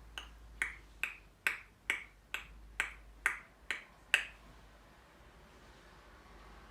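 African grey parrot making a run of ten sharp clicks, a little over two a second, each with a short ringing tail; they stop about four seconds in.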